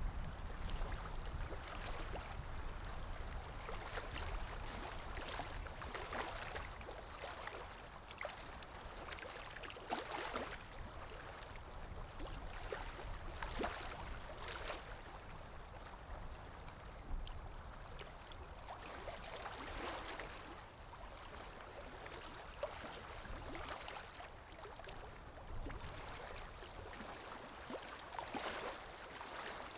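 Moving water splashing and gurgling in irregular surges a few seconds apart, over a low rumble.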